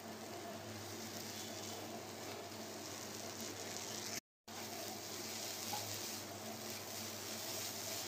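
Grated bottle gourd frying in a nonstick pan, a steady sizzle as it is turned with a wooden spatula while its water cooks off. The sound cuts out completely for a moment about four seconds in.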